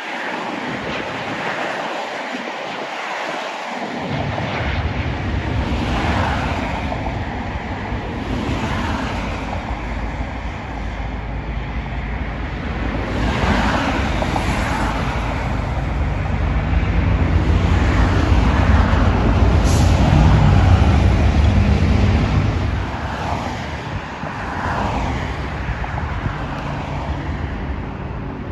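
Steady outdoor rumble of engines and traffic, with a low hum underneath. It builds to its loudest about two-thirds of the way through, then eases off.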